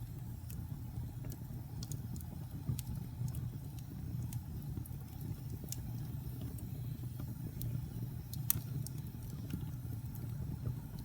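Wood fire burning in a fireplace: a steady low rumble of flames with irregular sharp crackles and pops, one louder pop about eight and a half seconds in.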